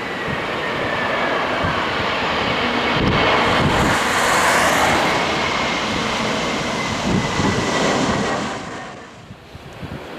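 Jet airliner engines passing close on landing: a loud, steady rush with a high whine that slides slowly down in pitch, loudest about halfway and dying away sharply near the end. Gusts of strong wind buffet the microphone throughout.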